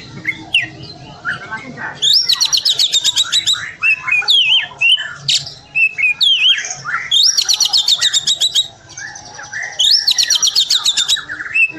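Oriental magpie-robin (kacer) singing an agitated song. It gives three bursts of fast, rapidly repeated high notes, starting about two, seven and ten seconds in, with loose slurred whistles between them.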